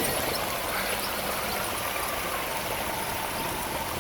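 Electric drive motor of a radio-controlled rock crawler whining as the truck drives, its pitch falling slightly, over the steady rush of a small waterfall.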